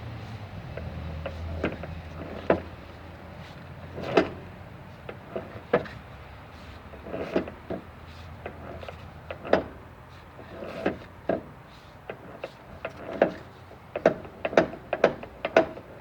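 Irregular sharp knocks and clanks, like hand tools working on the metal of a plate compactor during a repair, coming closer together near the end. A low hum fades out over the first few seconds.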